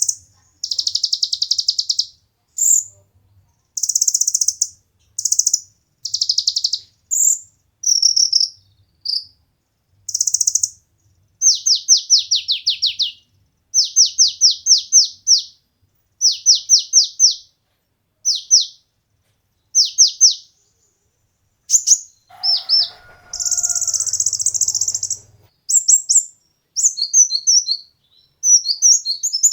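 Kolibri ninja (konin) sunbird singing, loud and high-pitched. It gives short buzzy chirps, then runs of quick falling notes, four to six at a time, in bursts separated by short pauses. Near the end these break into rapid jumbled twittering.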